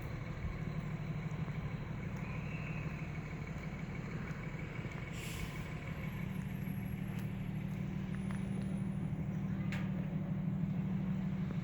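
Diesel engine of a 2008 Rosenbauer fire engine idling steadily with a low, even rumble. A brief hiss comes about five seconds in.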